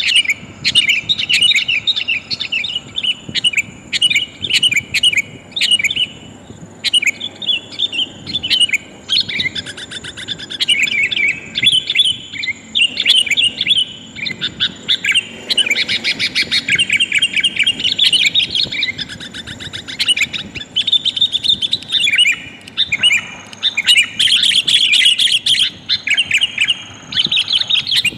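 Sooty-headed bulbul (kutilang) calls: rapid, chattering chirps in repeated bursts with short gaps, billed as a female calling to males.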